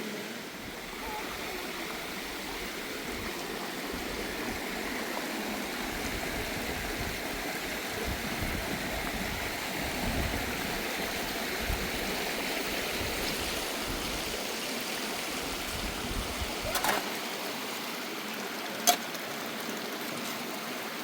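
Steady rush of running water, with a low rumble under it that drops away about four seconds before the end and a few sharp clicks near the end.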